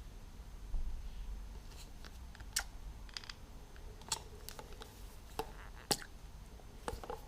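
A dozen or so scattered, light clicks and small knocks of parts and tools being handled on a workbench, over a low steady rumble.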